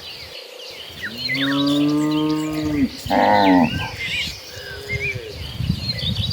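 Cows mooing: a long low moo that drops in pitch at its end, straight away a louder, higher-pitched call, then a weaker moo that falls away.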